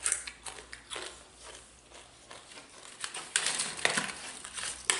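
Potato crisps being crunched and chewed: irregular crunches, sparse at first, then a dense, louder run of crunching in the last couple of seconds.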